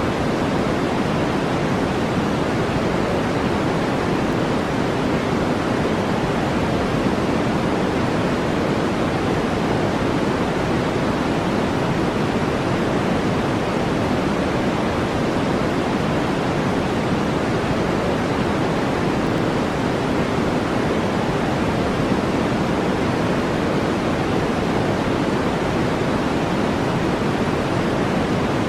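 Steady brown noise: an even, unchanging rushing hiss weighted toward the low end, with no strokes or breaks.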